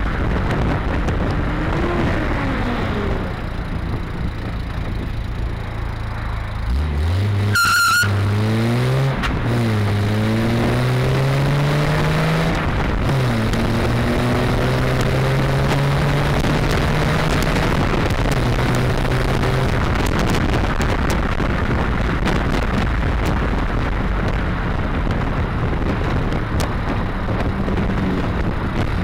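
Triumph TR6's straight-six engine accelerating through the gears: the revs climb steeply about a quarter of the way in, drop at a gear change, climb again and drop once more, then settle into steady cruising with road and wind noise. A brief high squeal comes just as the hard acceleration begins.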